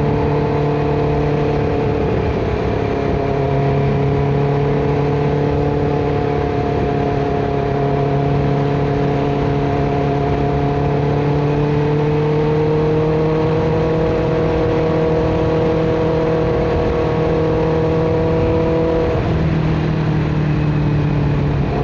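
Motorcycle engine running steadily while riding at cruising speed, over a constant rush of wind and road noise. The engine note rises slightly partway through and changes near the end.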